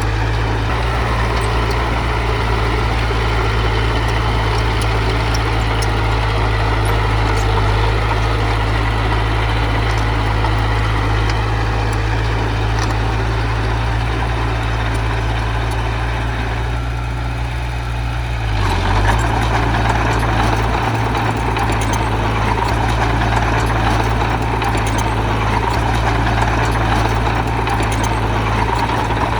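Diesel engine of heavy earthmoving machinery running steadily, with a brief dip and change in the engine note about two-thirds of the way through.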